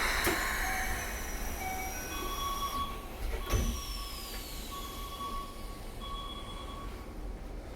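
Railway sound aboard a Keikyu New 1000 series train at a station: a low steady hum under a short run of plain electronic notes at changing pitches, like a chime. Two high whines slowly fall in pitch, the second starting with a sharp click about three and a half seconds in.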